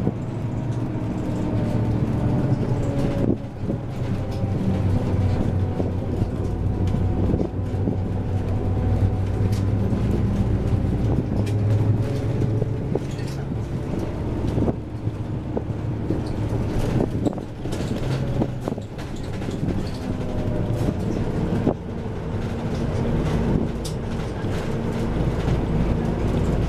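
Inside a moving bus: the engine runs steadily with a slowly shifting drone, over road noise, with occasional rattles and knocks from the cabin.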